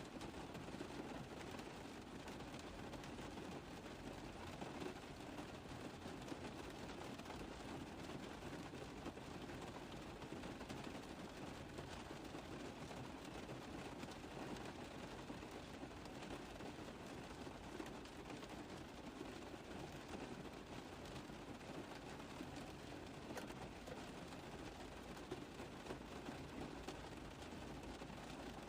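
Rain drumming steadily on a car roof: a dense, even patter of drops that does not let up.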